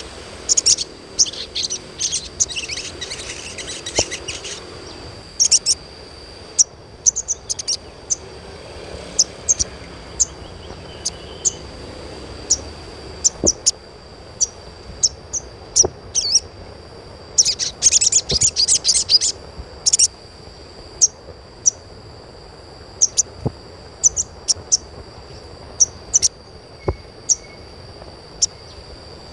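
Little spiderhunter (sogok ontong) giving short, sharp, high chirps, mostly one at a time about once a second, with quick runs of calls near the start and again past the middle. It is the chirping call used to stir young birds into singing.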